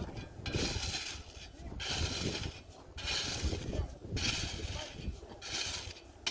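A shovel scraping and digging into loose volcanic ash and cinders, about five gritty strokes of roughly a second each in a steady rhythm.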